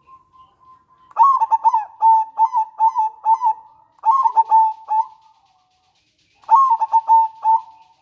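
Zebra dove (perkutut) calling: three bursts of rapid, clipped cooing notes, after a faint thin note in the first second.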